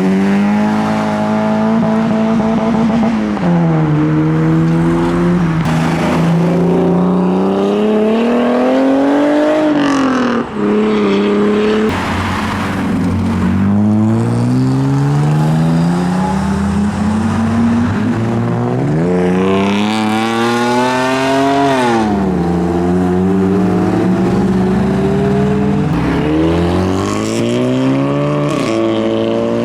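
Modified car engines revving and accelerating as cars drive past. The engine note climbs and falls back several times, with sharp drops at the gear changes.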